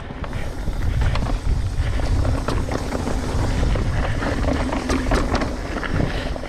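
Wind buffeting a helmet or bike camera's microphone with a steady low rumble, over the clatter and rattle of a mountain bike riding a rough dirt trail.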